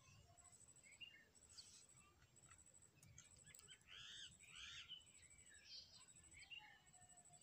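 Faint outdoor birdsong: scattered short chirps, with two louder arched calls about four seconds in. A high, pulsing chirp repeats about once a second underneath.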